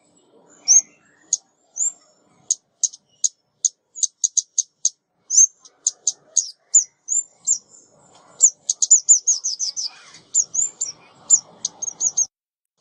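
Female ốc mít songbird calling, played as a trapping lure: a steady string of sharp, high chirps, some dipping slightly in pitch, with a quick run of chirps about eight to nine seconds in.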